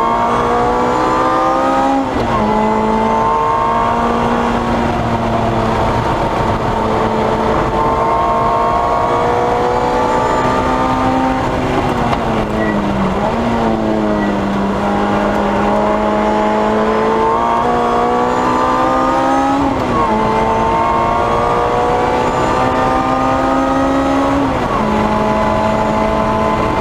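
Lotus Exige S engine under hard acceleration, heard from inside the cabin. Its pitch climbs and then drops sharply at upshifts about 2 seconds in, around 20 seconds and around 25 seconds. Around 12 seconds in it falls away as the car slows for a corner, then climbs again.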